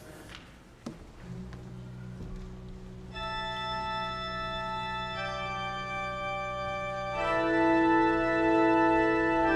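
Church organ starting the closing music: a low held bass note enters about a second in, then sustained chords join and build, growing louder about seven seconds in.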